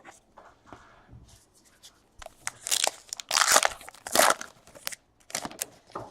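A trading-card pack wrapper being torn open and crinkled, in several short rips and rustles, the loudest in the middle.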